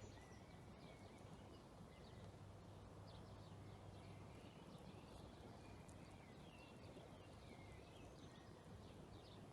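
Faint birds chirping, many short rising and falling calls, over a steady low hum and hiss.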